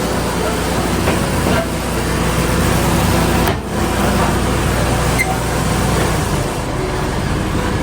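Tow truck's engine running steadily, with a brief dip about three and a half seconds in.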